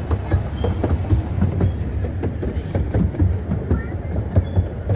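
A 12¼-inch gauge miniature steam railway train running along its track, heard from an open carriage. There is a steady low rumble, with frequent irregular clicks and knocks from the wheels on the rails.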